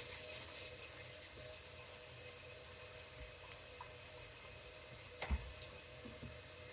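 Water running from a tap with a steady hiss, a little louder in the first couple of seconds, and one light knock about five seconds in.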